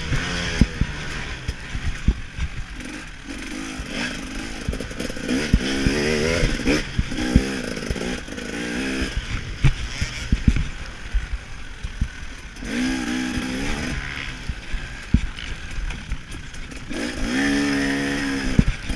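KTM 300 XC-W two-stroke single-cylinder dirt bike engine heard from the rider's own machine, revving up and falling off again several times as it is ridden around a motocross track, with frequent knocks and rattles from the bike over the rough ground.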